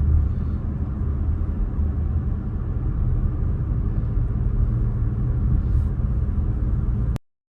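Steady low rumble of a vehicle's engine and tyres moving in slow traffic, cutting off abruptly near the end.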